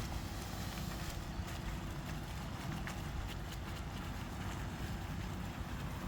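Wind buffeting the microphone outdoors: a steady low rumble with a few faint clicks.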